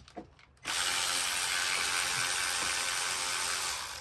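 A handheld power tool starts about half a second in, after a few light clicks, and runs steadily for about three seconds before stopping.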